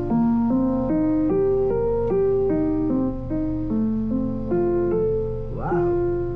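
Keyboard melody in even, steady notes, played back through a TOZO PE1 mini Bluetooth speaker, with a steady low hum underneath and a short upward sweep near the end.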